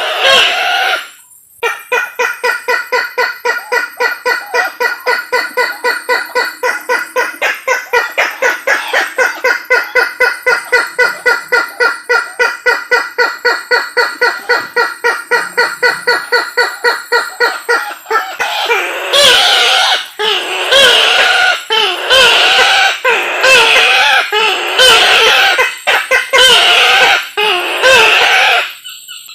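Sulawesi kareo (bush-hen) calling: a long run of rapid, evenly repeated notes, about four to five a second. From about 18 seconds in it changes to louder, wavering notes with a bending pitch, roughly one a second, as used for a lure call.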